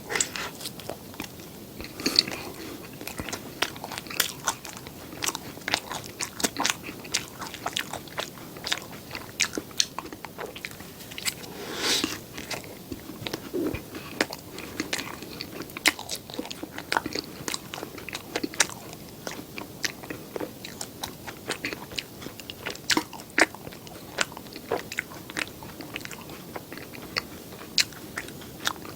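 Close-miked eating: a person biting and chewing, with frequent sharp, irregular crunches.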